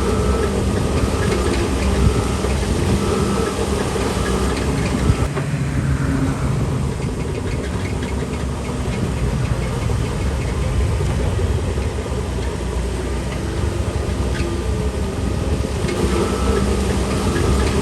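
Shantui DH17C3 Pro bulldozer's diesel engine running with track clatter. A short high note repeats about once a second at the start and again near the end, and the engine note shifts lower about five seconds in.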